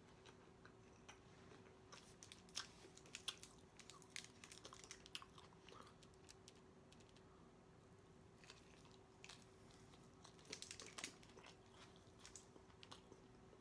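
Faint close-up chewing and mouth sounds of a person eating tacos, with small clusters of clicks and smacks, over a faint steady hum.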